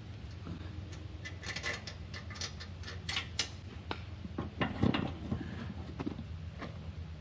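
Irregular metallic clicks, clinks and knocks of hand tools working on a steel sawmill wheel, busiest through the middle with the loudest clank about five seconds in, over a steady low hum.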